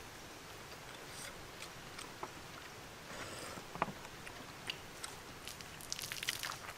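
Scattered light clicks and taps over a faint steady hiss, with a quicker run of clicks near the end.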